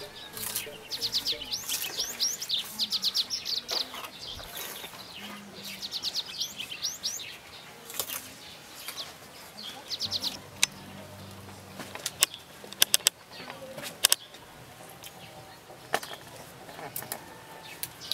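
Birds chirping in short, rapid chattering trills, repeated several times through the first ten seconds, then a few sharp clicks.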